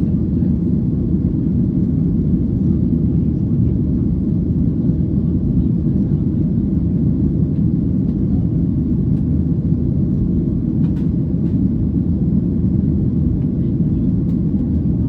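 Steady low rumble of a Boeing 737 airliner's jet engines and airflow heard inside the passenger cabin in flight.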